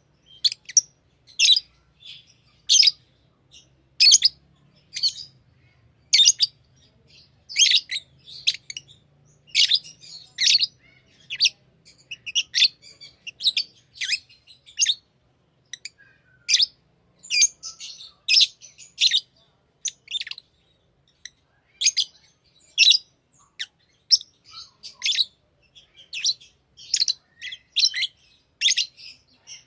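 Pet lovebirds chirping: short, sharp, high-pitched chirps repeated about once or twice a second, coming thicker and overlapping in the second half.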